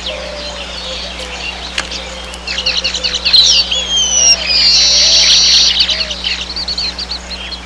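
Weaver birds chattering: a jumble of short, high chirps, then a falling whistle about three and a half seconds in, followed by a buzzy trill lasting about a second and a half.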